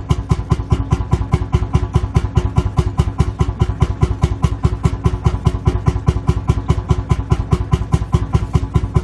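Lanz Bulldog tractor's single-cylinder two-stroke hot-bulb engine idling, a steady, even thump-thump at about five to six beats a second.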